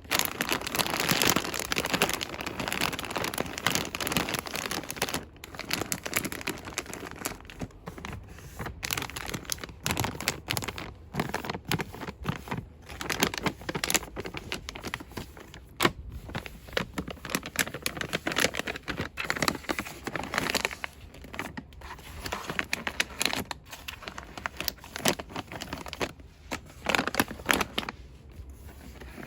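Fast, aggressive rustling and crinkling of shop product packaging handled close to the microphone, with a steady run of sharp crackles and scrapes.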